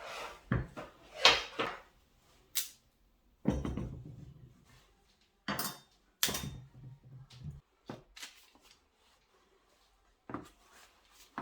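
Kitchen handling sounds: a dozen or so short knocks and clatters of cookware and utensils being set down and moved, some sharp and some duller, with quiet gaps between.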